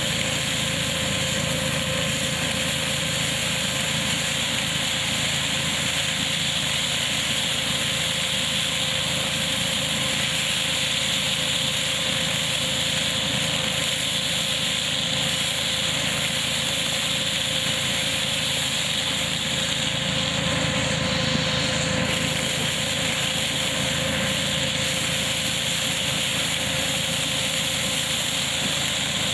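Tractor-powered hazelnut collecting machine running steadily under the tractor's engine, a constant machine drone with a steady hum and no change in speed.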